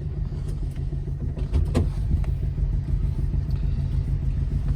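Alfa Romeo GT Junior Bertone coupé under way: its twin-cam four-cylinder engine and the road noise make a steady low rumble, with a few light clicks.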